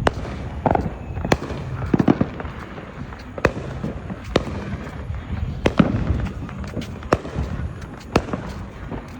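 Consumer fireworks going off: sharp bangs and pops, a dozen or so at irregular intervals, over a low continuous rumble.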